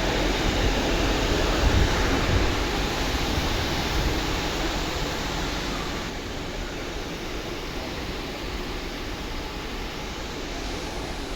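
Steady rushing noise that eases off somewhat about six seconds in.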